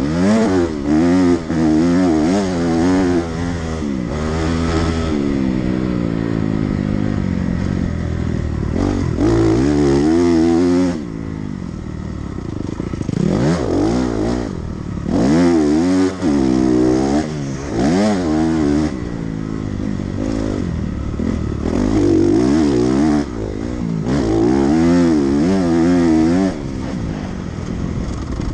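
Dirt bike engine ridden hard around a motocross track, its pitch climbing and dropping again and again with the throttle and gear changes. It eases off for a couple of seconds about halfway through, then pulls hard again.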